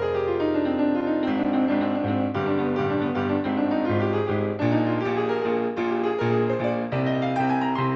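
Solo piano music, with rippling runs of notes over held bass notes: the runs fall near the start and climb again near the end.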